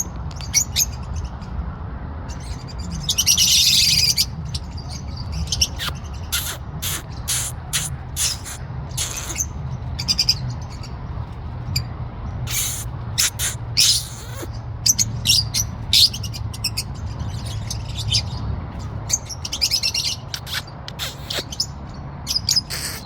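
Pet parrot chirping over and over in short, sharp high chirps, with one longer, louder harsh call about three seconds in. A steady low hum runs underneath.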